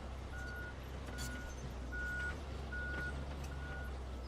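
A construction vehicle's reversing alarm beeping: one steady high tone, about one beep every 0.8 seconds, over a low engine rumble.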